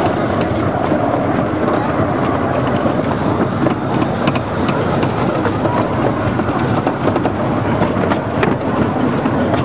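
Carriages of a 15-inch gauge miniature railway train running along the track, heard from aboard: a steady rattle of wheels on rail with scattered clicks over the rail joints.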